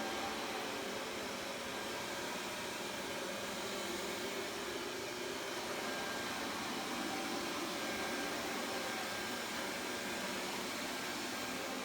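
Xiaomi robot vacuum cleaner running: a steady whirring hiss with faint humming tones, even in level throughout.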